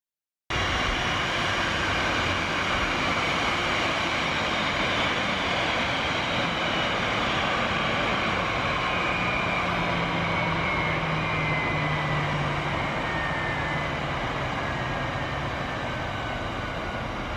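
Electric train running, its motor whine falling slowly in pitch as it slows, over steady running noise. Starts abruptly about half a second in.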